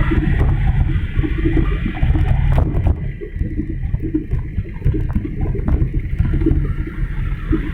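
Wind buffeting the microphone: a loud, uneven low rumble that eases a little about three seconds in.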